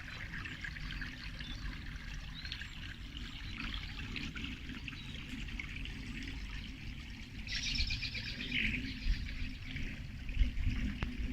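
Small songbirds chirping and singing, with a brief burst of rapid repeated notes about two-thirds of the way through, over a low steady rumble.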